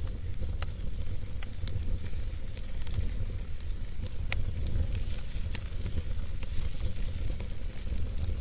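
Wood fire burning in a fireplace: a steady low rumble with scattered sharp crackles and pops, several a second.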